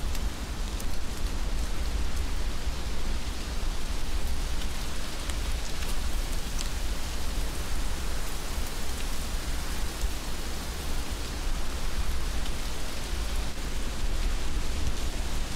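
Heavy rain falling steadily: an even hiss with scattered drop ticks and a low rumble underneath.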